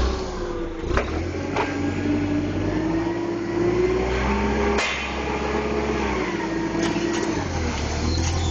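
A vehicle or machine engine running, its pitch drifting slowly up and down, with a few sharp metal knocks and clanks.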